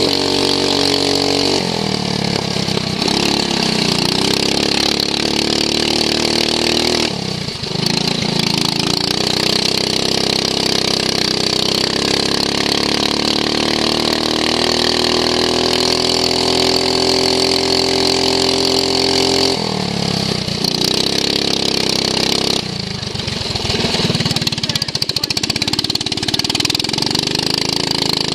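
Racing lawn mower engine at racing speed: the revs climb steadily for about ten seconds, drop sharply, and dip briefly twice as the throttle is eased, with a steady high whine running alongside.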